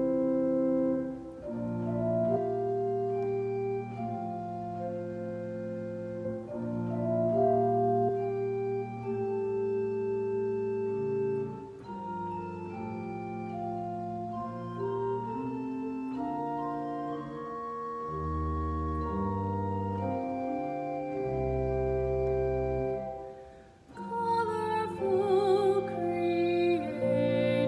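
Organ playing slow, sustained chords, with deep bass notes entering in the second half. Near the end a wavering vibrato melody comes in over the chords.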